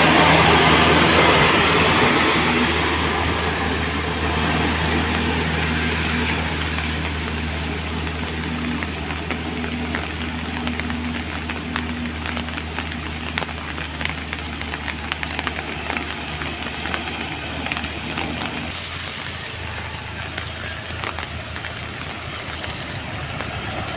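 Heavy truck's diesel engine running steadily in the rain, a low hum with rain pattering and ticking over it. A steady high whine runs above it and cuts off suddenly about three quarters of the way through.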